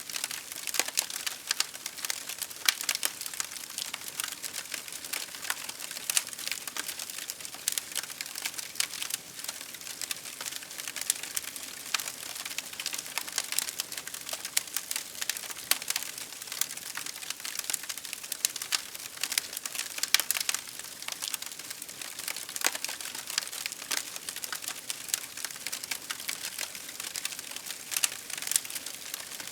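Wood fire burning in a fireplace, crackling with dense, irregular small pops and snaps over a faint hiss.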